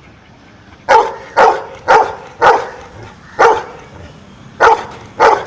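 Dog barking out the answer to a sum: seven short, sharp barks, mostly about half a second apart, with a longer gap before the last two. These are the count toward eight for "7 plus 1".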